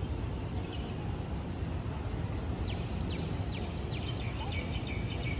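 Steady low outdoor city rumble, with a small bird breaking into a run of quick, high, falling chirps about halfway through, coming faster near the end.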